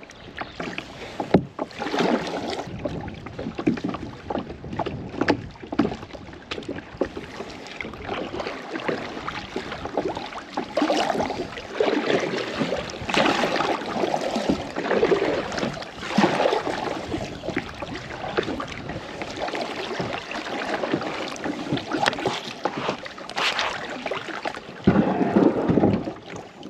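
Kayak being paddled on a lake: paddle blades dipping and splashing in the water in irregular strokes.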